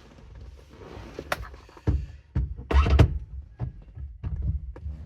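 A string of thunks and clicks from hands and tools working at a car's steering wheel as it is refitted. The loudest is a cluster of heavy thumps about three seconds in.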